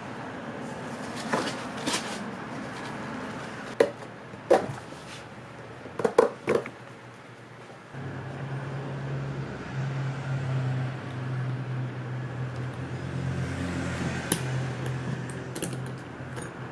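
Several sharp clicks and knocks from hand work with small metal tools, then a small motor starts about halfway through and runs with a steady low hum.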